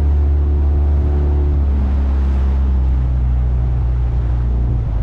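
A small motorboat's engine running steadily underway. Its note shifts lower about two seconds in and changes again just before the end.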